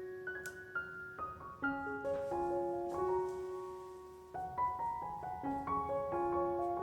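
Soft background piano music playing a slow, gentle melody, with a brief fade about four seconds in before the next phrase begins.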